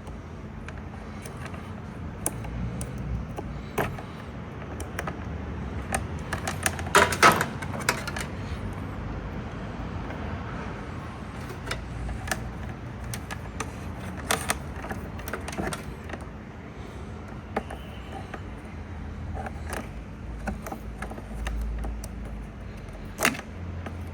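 Scattered clicks and knocks of handling, busiest about a third of the way in, over a faint steady low hum.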